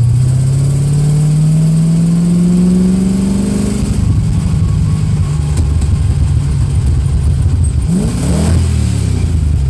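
V8 exhaust through 3-inch turbo mufflers, with heavy bass: the engine climbs smoothly in revs for about four seconds, then lets off into a choppy, burbling low rumble. A brief rise and fall in pitch comes near the end.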